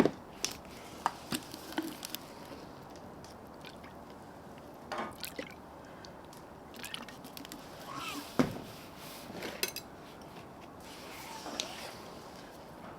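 Scattered light clicks and knocks of utensils on cookware, with some wet, liquid sounds of food being handled.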